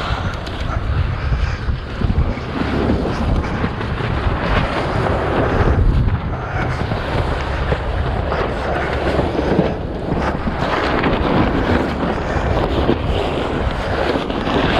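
Strong sea wind buffeting the microphone on the deck of a sailboat held head to wind, with waves washing around the hull.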